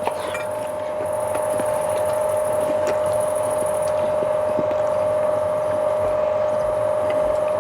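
A steady, even hum, like a small motor running, with a high buzzing above it that starts and stops every second or so.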